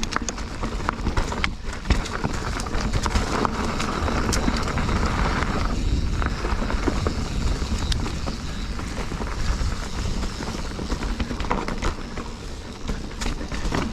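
Mountain bike riding over rocky singletrack, heard from a bike-mounted action camera. Wind rumbles on the microphone, and the tyres and frame keep up a constant clatter of small knocks and rattles over the rocks.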